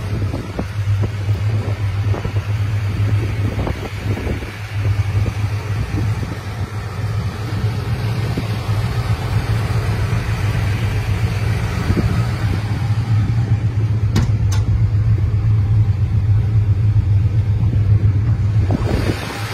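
1969 Plymouth Road Runner's 383 big-block V8 idling with a steady low rumble. Two short sharp clicks come about two-thirds of the way through.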